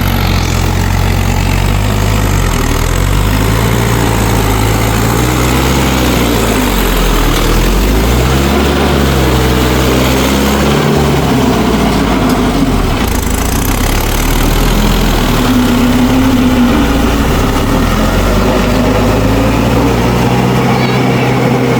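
Mahindra tractor's diesel engine running, its pitch wavering up and down several times in the middle, then settling to a steadier note.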